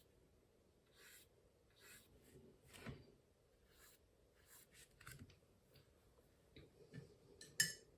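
Faint brush strokes scratching across watercolour paper, a stroke every second or so, with a sharper tap near the end.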